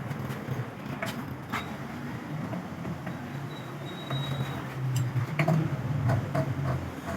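Workshop noise: a steady low machine hum that grows louder about four seconds in, with scattered sharp clicks and knocks.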